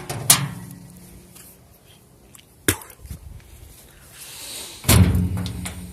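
Small square hay baler running: a sharp metallic clank about every two and a half seconds over a low steady hum, the loudest clank near the end.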